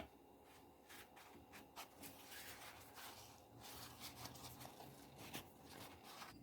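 Faint kitchen handling sounds: rubbing and scraping with scattered light clicks, and one sharp click at the start.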